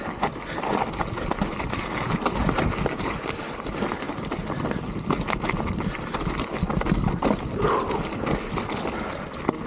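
Mountain bike riding over rough trail: tyres rolling on dirt and roots, with frequent irregular knocks and rattles from the bike over a steady rumble.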